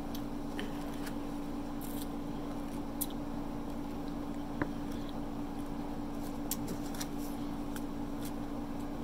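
Close-up eating sounds of someone eating pizza: quiet chewing with a few short, sharp clicks scattered throughout, over a steady low hum.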